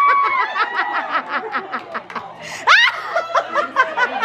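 A person laughing hard and high-pitched in a quick run of ha-ha's, with a rising squeal about three seconds in.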